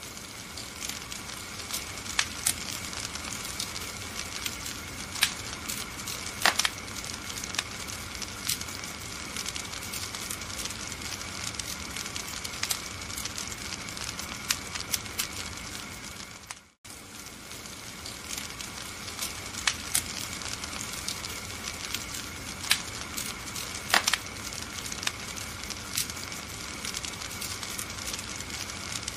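Wood fire crackling steadily, with frequent sharp pops and snaps over a soft hiss. The sound cuts out completely for a moment a little past halfway, then resumes.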